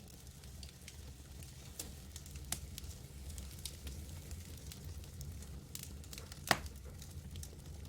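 Campfire crackling: scattered sharp snaps and pops over a low, steady rumble, with one louder pop about six and a half seconds in.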